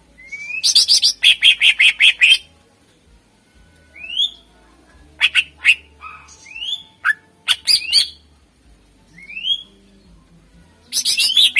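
Greater green leafbird (cucak ijo) singing: a rising whistle, then a fast run of loud repeated notes lasting over a second, followed by scattered rising whistled upslurs and sharp notes, and another quick run near the end.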